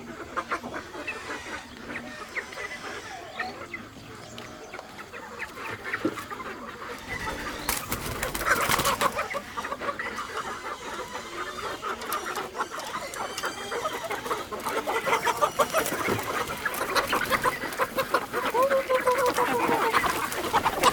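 A flock of chickens clucking, with many short calls overlapping; it grows busier and louder about halfway through.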